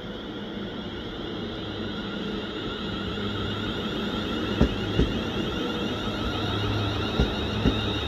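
ScotRail electric multiple unit running past on the far line: a steady rumble with a high whine that slowly grows louder. About halfway through come two pairs of sharp clunks as the wheelsets cross a rail joint.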